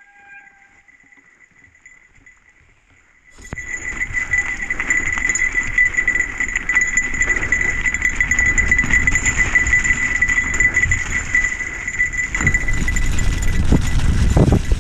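Quiet at first, then about three seconds in a mountain bike on a wet, rough trail starts up loudly: tyres and frame rumble and rattle over the ground, with a steady high-pitched squeal running over it.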